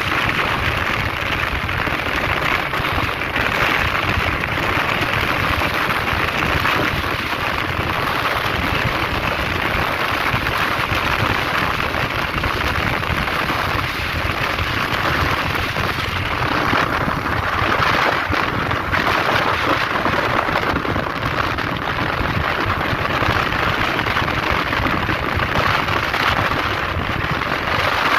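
Steady rushing of wind and rain against the microphone on a motorcycle riding fast in the rain, with a low buffeting rumble underneath.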